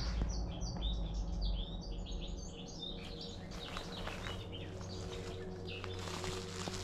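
A small bird chirping in a quick series of short, high chirps for about three seconds, over a low rumble. After that only scattered faint clicks and rustles.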